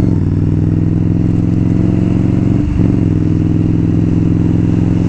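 Indian Scout V-twin motorcycle engine running steadily under way. It breaks off briefly twice, right at the start and just past halfway, and comes back a little lower in pitch each time, as gears are changed up.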